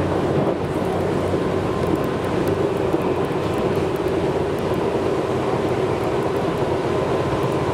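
Tobu 6050 series electric train running at speed, heard from inside the carriage: a steady, even running noise of the wheels on the rails with a faint steady whine.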